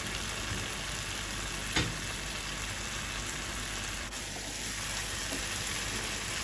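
Thick onion-and-tomato spice masala sizzling and bubbling steadily in a nonstick pan, simmering down until the oil separates from it. A single sharp knock about two seconds in, and near the end a wooden spatula stirs it.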